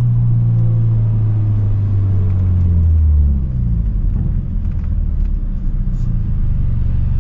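Straight-piped BMW F30 328i exhaust droning at a steady deep note, then dropping in pitch a little over three seconds in as the revs fall, and carrying on as a lower steady drone.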